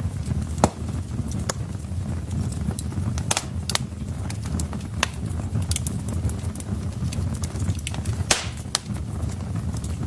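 Wood fire crackling in a fireplace: irregular sharp pops and snaps over a steady low rumble of the burning logs, with a longer burst of crackle near the end.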